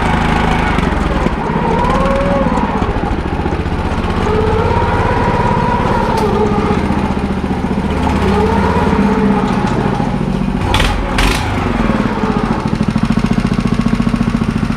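Small single-cylinder engine of a ride-on spreader sprayer running steadily, with two sharp clicks about eleven seconds in. Near the end its firing settles into an even, pulsing beat.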